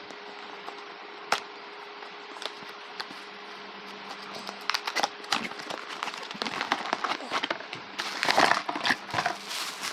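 A nebulizer machine's case or packaging being opened and handled: one sharp click about a second in, then from about halfway a busy run of clicks, knocks and crinkling, loudest near the end, over a faint steady hum.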